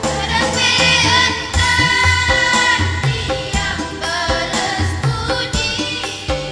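Choir singing a song over a backing track with bass and a steady drum beat; the voices come in at the start after an instrumental intro.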